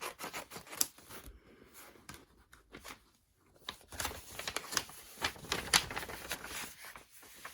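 Packaging being handled and opened by hand: irregular crinkling, rustling and tearing, with a lull partway through.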